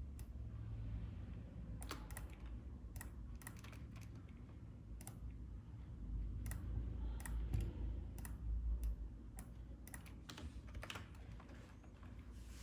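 Computer keyboard and mouse clicks, irregular and a second or so apart, over a steady low hum.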